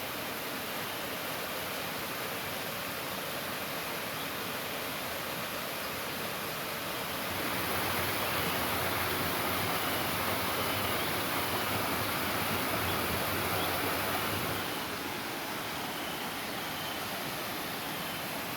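Waterfall rushing: a steady roar of falling water that grows louder for several seconds in the middle and then settles back.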